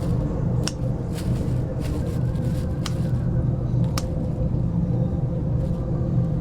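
Steady low machine hum with a few sharp clicks, about three over the stretch.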